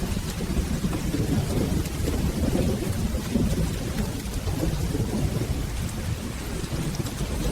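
Steady rain with a continuous low rumble of rolling thunder underneath, with no single sharp clap.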